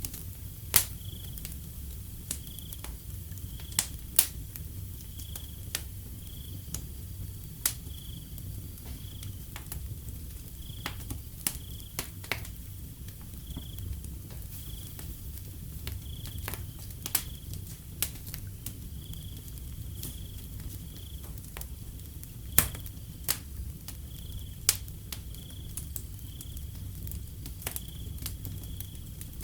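Wood fire crackling, with sharp irregular pops over a low steady rumble of the flames. Behind it a cricket chirps in an even rhythm, a short high chirp a little more than once a second.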